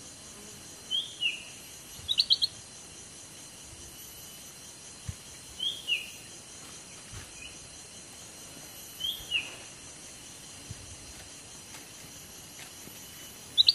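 Birds calling: a short falling two-part call repeated three times about four seconds apart, and quick bursts of three or four chirps twice, over a steady high pulsing insect drone.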